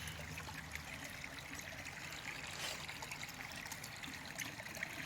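Small stream trickling steadily, with a few faint ticks.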